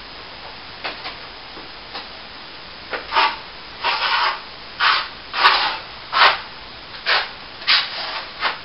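Hand strokes of a tool rubbing across a plaster wall: a few faint strokes at first, then about seven louder ones, roughly one a second.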